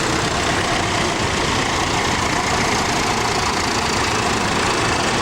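Tractor diesel engine running at a steady speed, a loud, even mechanical drone with no change in pitch.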